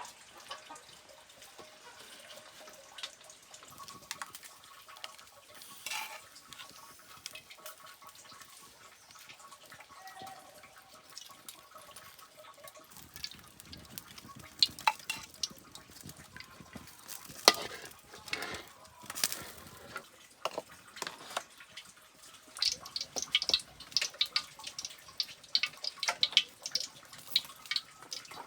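Kitchen cooking sounds: scattered clinks and knocks of pots and utensils mixed with water, turning into a fast run of sharp ticks and crackles in the last several seconds.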